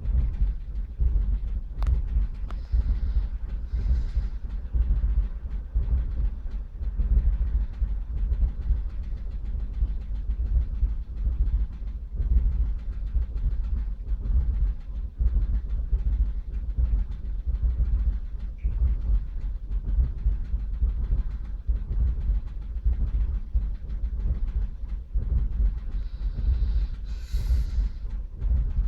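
Vauxhall Corsa C 1.0 three-cylinder petrol engine idling roughly with a misfire: a low, uneven chugging that stumbles irregularly. The misfire is logged as random and on cylinders 1 and 2 (P0300, P0301, P0302) and remains with new spark plugs and a new coil pack; a garage suspects the ECU.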